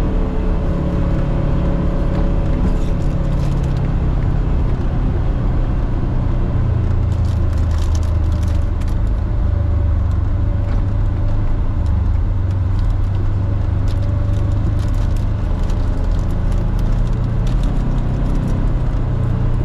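Polaris Xpedition four-seat side-by-side running along a trail, a steady low engine drone that drops in pitch for a few seconds midway and then comes back up, with scattered rattles and clicks.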